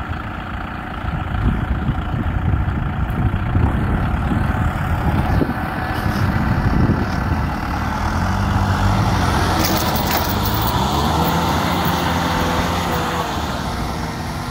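Kubota M6040SU tractor's diesel engine running steadily with a rough low rumble. From about eight seconds in, its pitch glides up and down as the engine is revved.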